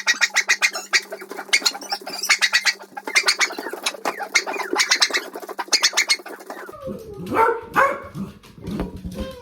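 A bird chirping in rapid repeated trills, in short bursts about once a second, which stop about two-thirds of the way through.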